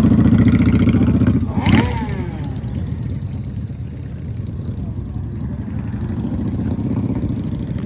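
Motorcycle engine running, loud and pulsing for about the first second and a half, then dropping to a quieter rumble. A short, sharp sound with a falling pitch comes just after the loud part ends.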